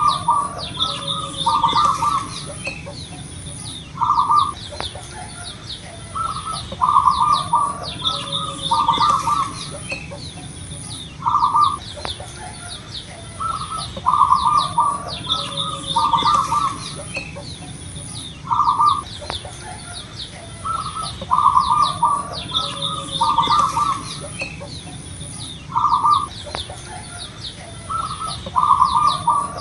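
Zebra doves (perkutut) cooing: short runs of quick, rolling coo notes in a pattern that comes round about every seven seconds. Sharp higher chirps and a steady high buzz sound underneath.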